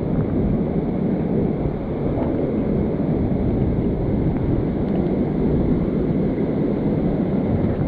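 Steady rushing of a waterfall, a dense even noise heavy in the low end.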